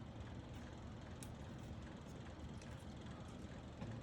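Faint handling of small keyboard parts: a few light clicks over a steady low background hum.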